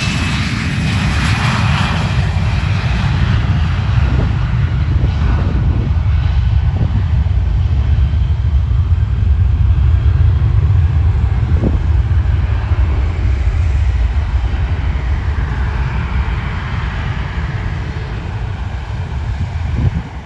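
Fixed-wing aircraft engines rumbling loudly as a plane passes close by, with a falling whine at the start. The rumble swells to its loudest about halfway through, then eases off toward the end.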